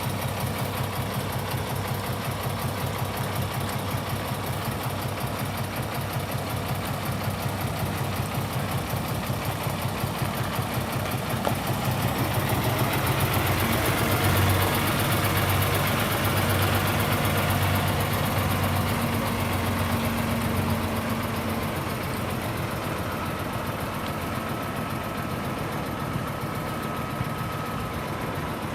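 2018 Kenworth T680 truck tractor's diesel engine idling steadily. It grows louder for several seconds in the middle, then settles back to idle.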